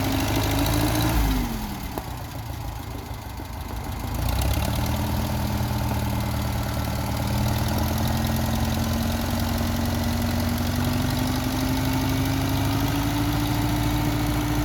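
Case 300 tractor engine running. Its speed drops sharply about a second in and it runs quieter for a few seconds, then picks up again around four seconds in and climbs slowly and steadily in pitch.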